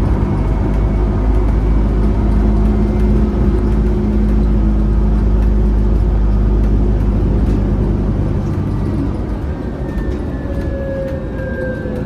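Cabin ride noise of a VMZ Avangard trolleybus: low road and body rumble with a steady electric traction-drive hum. Near the end the drive's whine falls in pitch as the trolleybus slows.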